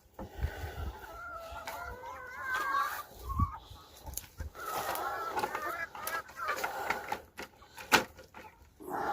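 A flock of chickens clucking and calling, with a couple of sharp knocks near the end.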